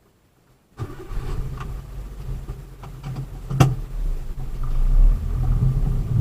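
Vehicle engine running with a low hum. It comes in abruptly about a second in and grows louder, with one sharp click about halfway through.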